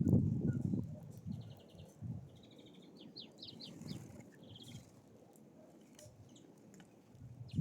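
Small songbirds calling at a feeder: a quick buzzy trill about a second and a half in, then a run of short falling notes around three seconds in. Low rustling and knocking noise fills the first two seconds.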